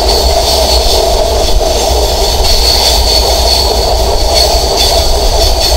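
Bangladesh Railway intercity passenger train (Sundarban Express) running round a sharp curve, heard from on board: a loud, steady rumble of wheels and carriages with a steady high whine over it.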